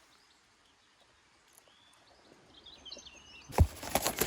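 A few faint short bird chirps, then near the end loud crackling and rustling of twigs and leaves as a bush is pushed apart by hand.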